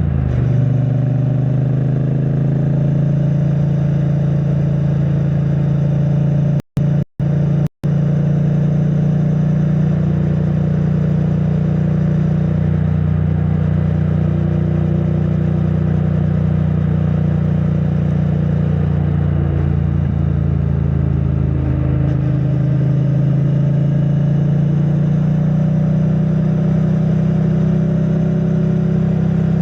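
2022 Triumph Bonneville T100's 900 cc parallel-twin engine running through its stock exhaust at a steady cruise, heard muffled from a backpack. The pitch holds steady, with slight shifts about ten and twenty-two seconds in. The sound cuts out completely three times for an instant about seven seconds in.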